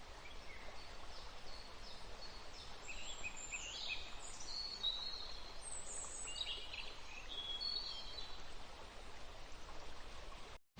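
Birds chirping faintly, with many short high calls and quick whistled glides over a low steady hiss. The calls are busiest in the middle.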